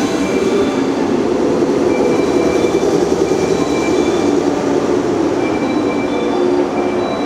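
Electric multiple-unit train running on the rails, a loud steady rumble of wheels and running gear, with thin high tones coming and going above it.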